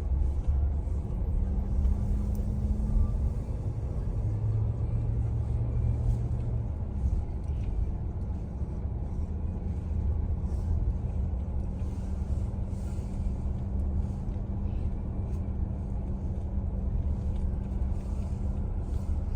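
Car driving, heard from inside the cabin: a steady low rumble of engine and tyres with a faint steady hum underneath.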